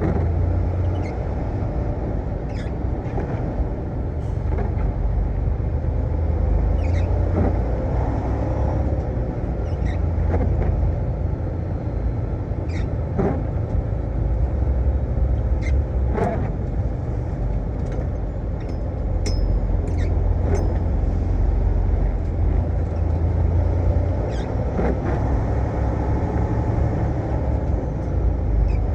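Semi-truck running: a steady low engine and road rumble with a faint steady hum, and light clicks and rattles scattered through it.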